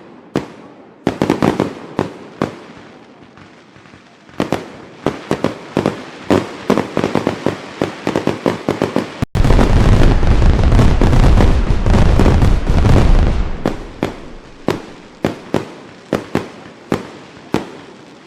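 Fireworks going off: a string of sharp bangs and crackles. About nine seconds in, a dense, loud barrage of rapid reports with a deep rumble sets in and lasts about four seconds, then single bangs resume.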